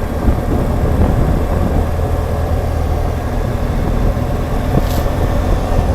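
BMW R1200GSA's flat-twin engine running steadily as the motorcycle is ridden slowly, a deep, even engine note with no change in speed.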